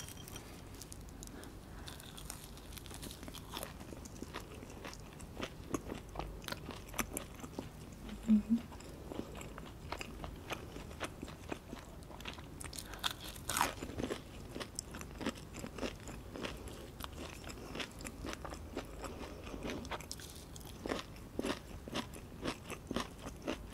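Close-up crunching and chewing of crispy breaded fried chicken: the coating crackles with each bite and chew in a steady run of short crunches, with one louder bite about halfway through.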